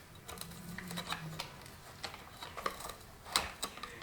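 Scattered light clicks and taps of small hard objects being handled, the sharpest a single click a little over three seconds in.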